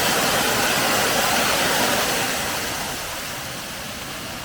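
Waterfall rushing in a steady roar of falling water, quieter from about three seconds in.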